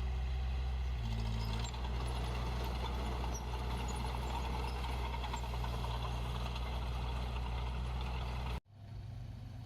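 Heavy-equipment diesel engine running steadily, with a brief change in engine note about a second in. Near the end the sound cuts off abruptly.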